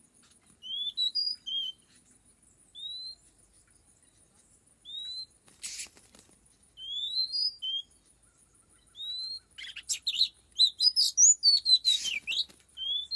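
Oriental magpie-robin (kacer) giving short rising whistled notes a second or two apart, which quicken into a busy run of whistles and chirps over the last few seconds. Two brief rustling bursts come about six and twelve seconds in.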